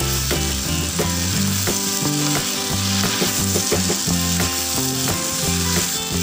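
Chopped cabbage and carrots sizzling in a hot non-stick wok, with a wooden spatula stirring and scraping through them in a stream of short clicks.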